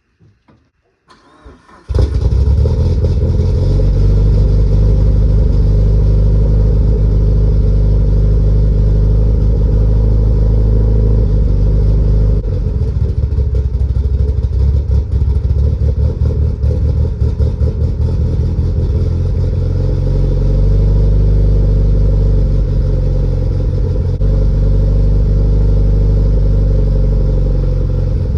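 A 2005 Mitsubishi Lancer Evolution VIII's turbocharged four-cylinder engine, with a Buschurs Racing 3-inch cat-back exhaust and large Magnaflow muffler, starts suddenly about two seconds in and then runs with a deep exhaust note. From about halfway the note turns more uneven, then steadies again near the end. The owner finds this exhaust a little raspy, and too quiet at idle.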